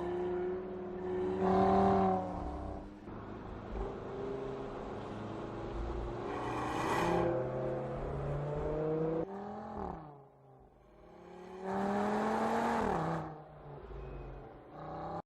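2019 Audi TT RS's turbocharged 2.5-litre five-cylinder engine accelerating hard, its pitch climbing and then dropping back several times as the gearbox shifts up. It is loudest about two seconds in and again around seven seconds, and dips briefly near ten seconds before building again.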